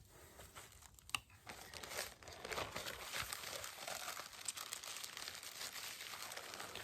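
Plastic wrapper of a cracker packet crinkling and tearing as it is opened, dense crackly rustling from about two seconds in, after a few sharp clicks.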